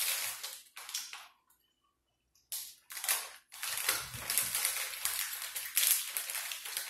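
Close-up crunching and crackling of eating, dense and irregular, which drops out almost completely for about a second near 1.5 s and then resumes.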